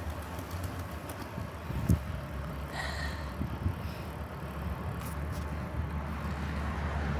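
Riding noise of a bicycle: a steady low rumble of wind and tyres, with a sharp knock about two seconds in and a brief high ring a second later.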